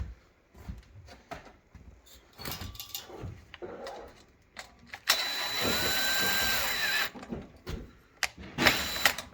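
A cordless drill-driver runs for about two seconds, driving a self-tapping screw through a clamp into a stainless steel chimney flue pipe, its pitch rising as it spins up and then holding. Light metal clicks and knocks come from handling the clamp and pipe before and after.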